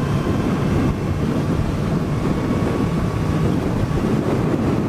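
Suzuki GSX-S1000's inline-four engine running steadily under way, with wind noise on the microphone.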